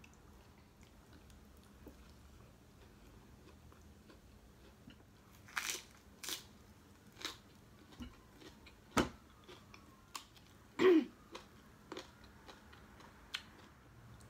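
Close-up eating sounds: sharp crunches and mouth smacks from chewing food, starting about five seconds in, with the loudest crunch near the end.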